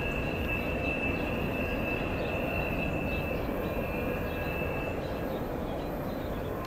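Double-stack intermodal container train rolling away on curved track: a steady rumble of steel wheels on rail, with a high steady squeal that stops about five seconds in.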